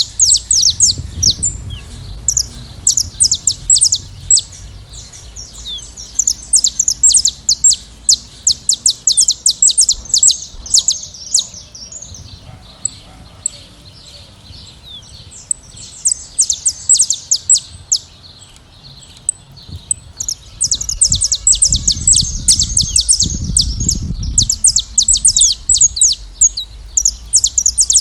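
A flock of saffron finches chirping and singing, many rapid high chirps overlapping one another. The chorus thins to scattered calls for several seconds in the middle, then turns dense again.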